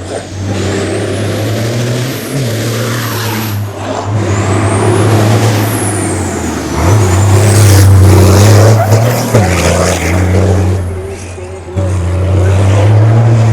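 Race car engine running hard at high revs, its note breaking and dropping briefly about four times as it changes gear, with a faint high whine rising and falling above it.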